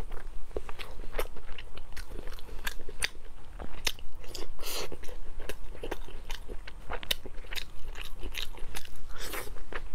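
Close-miked eating of glazed pork meatballs: biting and chewing, with many quick wet mouth clicks and smacks.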